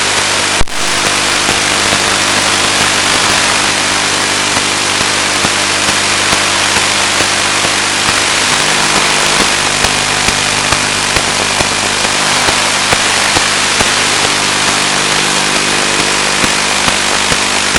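Steady drone of the Finwing Penguin's electric motor and propeller under loud, even radio-link hiss, with a sharp crackle about a second in and small clicks throughout.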